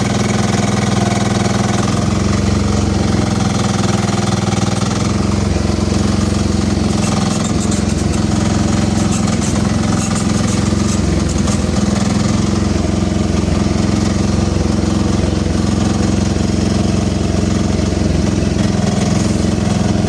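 Small engine running steadily at a constant speed, driving a homemade earth auger, with a patch of light rattling about a third of the way in.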